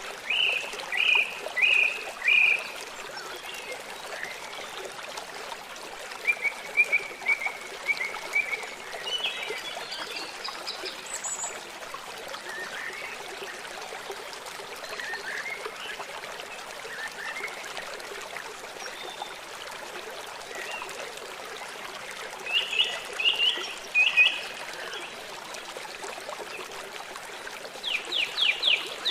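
Running water in a forest stream, a steady rushing trickle, with songbirds chirping over it in short clusters: a few near the start, a run of chirps around six to eight seconds in, another cluster a little past twenty-two seconds, and a fast trill at the very end.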